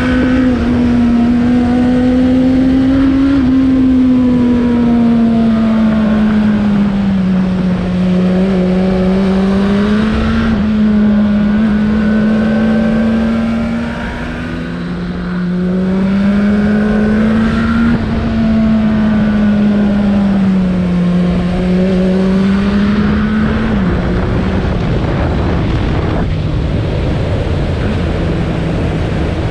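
Suzuki Bandit 1200's inline-four engine running under way, its pitch rising and falling slowly as the throttle changes. It settles to a lower steady note about three-quarters of the way through, with steady rushing noise from wind and road underneath.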